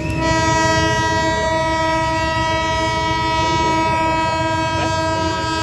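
Locomotive horn sounding one long, steady blast, several tones held together as a chord, over the low rumble of the passing train.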